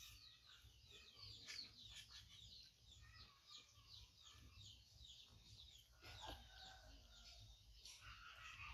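Faint background birdsong: many short, quick falling chirps from small birds, repeating throughout, with a few lower calls near the end.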